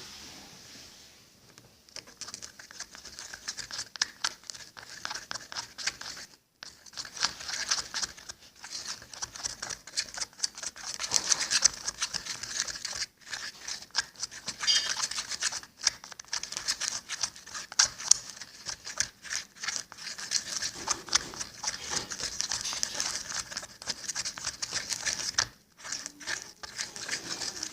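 Homemade slime being stirred and worked with powdered laundry detergent as the activator: a dense, sticky crackling and clicking, with brief pauses about six seconds in and near the end.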